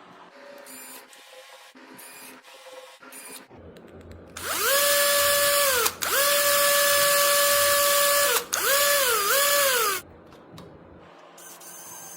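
Hand-held power drill running under repeated trigger pulls. It spins up to a steady whine about four seconds in, stops and restarts twice, sags and recovers once, then stops. Light clicks and handling noise come before it.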